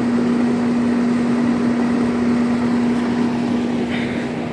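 2006 Rheem Classic 3-ton central air conditioner condensing unit running in cooling mode: a steady compressor hum on one pitch under the even whoosh of the condenser fan.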